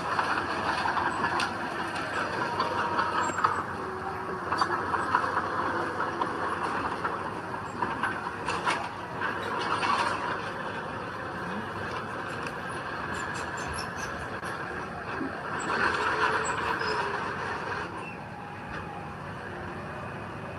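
Heavy diesel earthmoving machinery working: steady engine noise with scattered metallic knocks and clanks.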